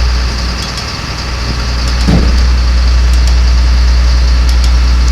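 Duramax 6.6-litre turbo diesel of a 2003 GMC C6500 truck idling steadily.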